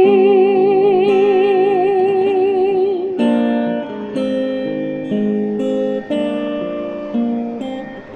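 A woman's voice holding a long final sung note with vibrato over acoustic guitar, then, about three seconds in, the voice stops and the acoustic guitar plays a short run of closing chords to end the song.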